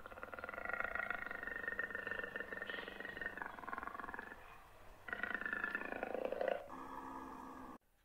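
A wild animal calling: one long, pulsing call lasting about four seconds, then a shorter call after a pause, then a lower call that cuts off abruptly near the end.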